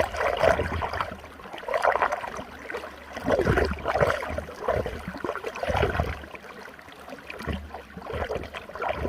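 Running water churning in a whirlpool, gurgling and sloshing in irregular surges every second or two.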